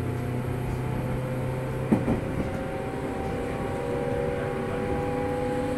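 Interior running sound of a JR East 205 series electric train: a steady rumble of wheels and running gear with a motor and gear hum whose tone rises slowly. A single sharp knock comes about two seconds in.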